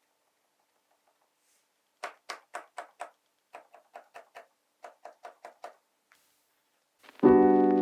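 Short, sharp plastic clicks from keyboard stabilizers being pressed and worked, in three quick runs of about four a second, the first run loudest. Piano music starts near the end.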